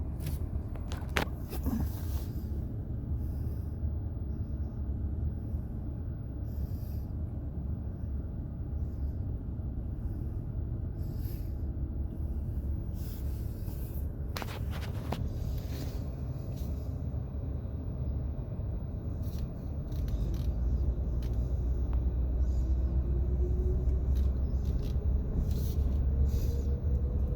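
Car driving on a road with a steady low engine and road rumble and scattered light clicks and knocks. About 20 seconds in the rumble grows louder and the engine note rises slowly as the car picks up speed.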